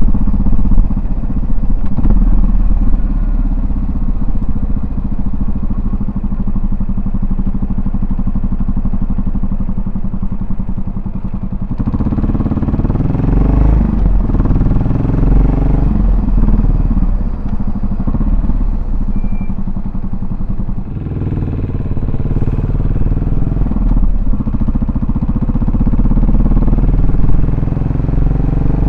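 Yamaha SR400's air-cooled single-cylinder four-stroke engine heard through its exhaust while riding. It runs steady at low speed for the first twelve seconds. After that it accelerates through the gears in rising sweeps with short breaks at each shift, eases off, and picks up again near the end.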